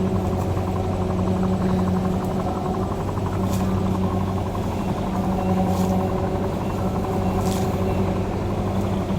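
Rice combine harvester engine running steadily at a constant speed, with three brief high-pitched ticks partway through.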